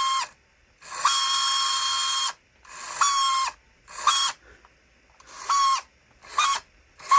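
Small electric drive motor and gearbox of a 1984 vintage RC truck, run with its wheels unloaded in about eight bursts that get shorter and shorter, each a high whine. It sounds like it's stripping the gears, and the owner thinks the little pinion gear needs repair.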